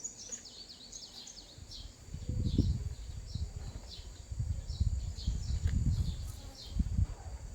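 Small birds chirping over and over in quick short calls. From about two seconds in, a low, uneven rumbling is the loudest sound.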